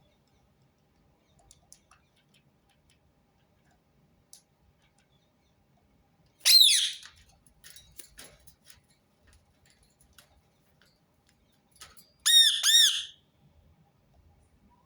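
Rose-ringed parakeet calling: one loud, harsh call with a falling pitch about six and a half seconds in, then a quick pair of calls near the end. Faint clicks in between.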